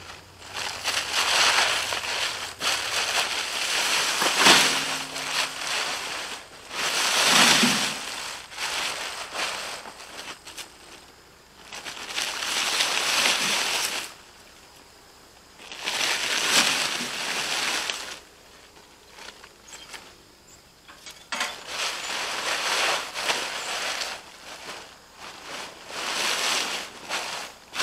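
Plastic tarp rustling and crunching in repeated bursts of a second or two as a load of sweet potatoes and dirt is dragged on it into a tractor bucket.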